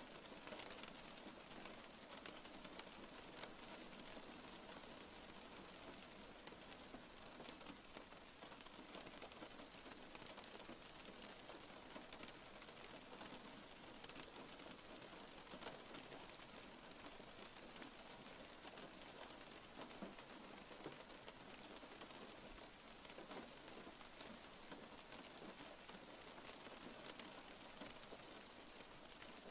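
Faint, steady rainfall, with many small drop ticks in an even hiss.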